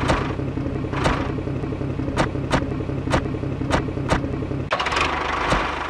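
Small single-cylinder diesel engine running, a steady low rumble with sharp knocks about twice a second. Near the end the low rumble fades and a hiss comes in.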